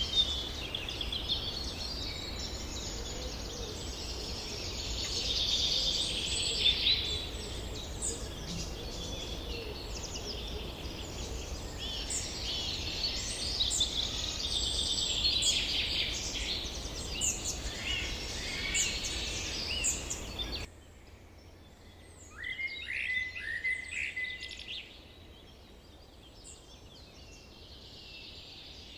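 A dense chorus of wild birds singing and chirping, many overlapping trills and whistles over a steady low rumble. About two-thirds of the way through it cuts off abruptly to a much quieter background with a few fainter bird songs.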